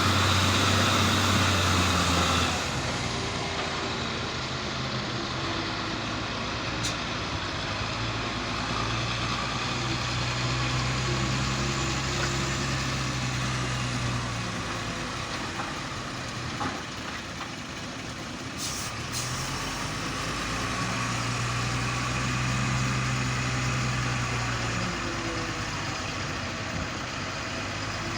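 Heavy vehicle's diesel engine running, its low drone swelling and easing by turns. It is louder and noisier for the first couple of seconds, then settles.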